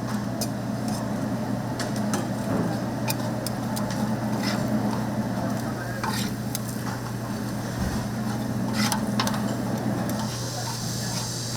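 Spicy braised chicken sizzling and being stirred in a cast-iron cauldron lid, with scattered clicks and scrapes of the utensil against the iron over a steady low hum. A high hiss comes in near the end.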